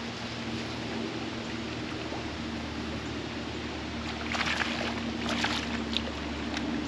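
River water trickling and lapping around a fishing kayak, over a steady low hum, with a short run of sharp splashy ticks about four seconds in.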